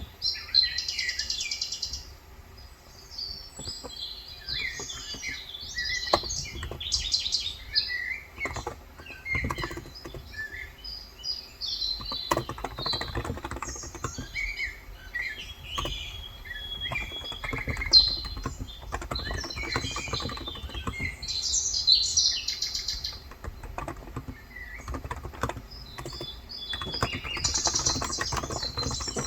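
Birds chirping and calling throughout, with bursts of typing on a Cox Endeavor electrocapacitive (Topre-style, 35 g) keyboard coming and going, recorded through a phone microphone.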